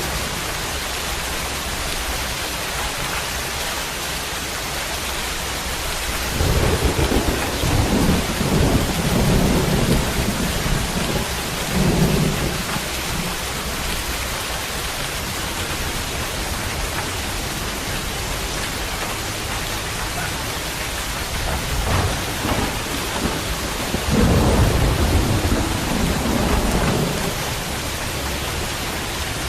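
Steady rain falling, with low rolls of thunder: one rumbling from about six to twelve seconds in, another about twenty-four seconds in.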